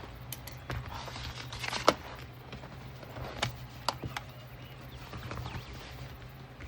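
A few sharp clicks and taps from sewing work being handled, with a short rustle just before the loudest click about two seconds in, over a steady low hum.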